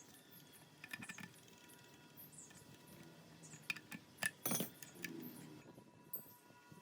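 Small metal parts clinking and tapping as they are handled, a few light clinks about a second in and a louder run of sharp clinks around four seconds in.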